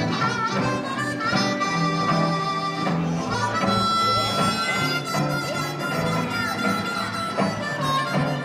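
Harmonica playing an instrumental solo over the band's accompaniment, with bent notes and one long held high note through the middle.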